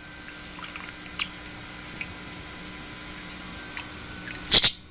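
Small pet birds bathing in a shallow dish of water: light drips and small splashes, then a short burst of vigorous splashing near the end, and another just after.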